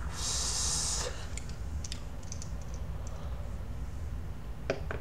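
A hiss from vaping that lasts about a second. It is followed by scattered light clicks, with two sharper clicks near the end.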